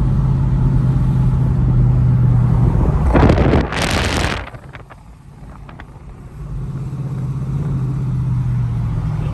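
Car engine running with a steady low drone. About three seconds in, a loud rushing noise lasts for about a second, then the engine sound drops away briefly before the drone returns.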